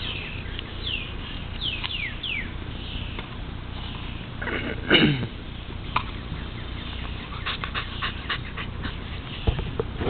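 German shepherd puppy playing at his water bowl, giving one short whine that falls in pitch about halfway through, followed a few seconds later by a quick run of light clicks and knocks.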